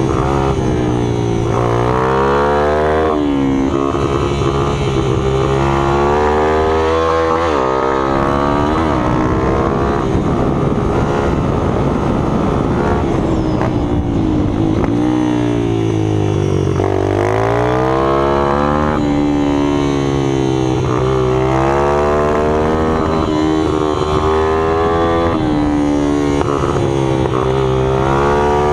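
Several small minibike engines running hard at once, their pitch repeatedly climbing and dropping as they rev and ease off.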